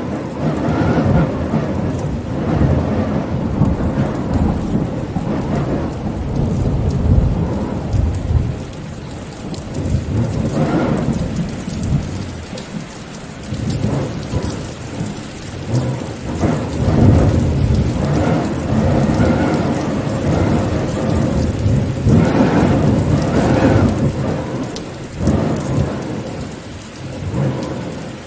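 Rain falling steadily with rolling thunder, low rumbles that swell and fade several times.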